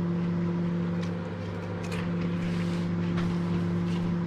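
Microwave oven running, a steady electrical hum with a few faint ticks, as it cooks meringue mixture.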